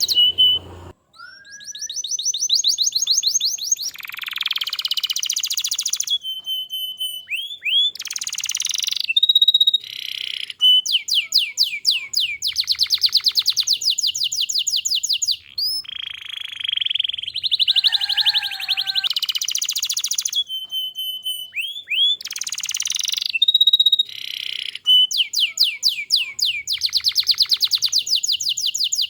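Domestic canary singing a continuous song: phrases of fast trills and high whistled notes, each lasting a second or two, one after another with brief gaps between them.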